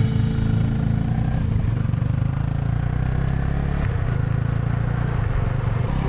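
Honda Rebel 250's single-cylinder engine running steadily.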